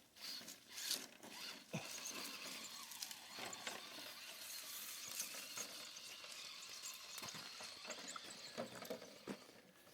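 Faint whir of a small electric RC crawler truck's motor and gears, with a few light clicks and knocks scattered through.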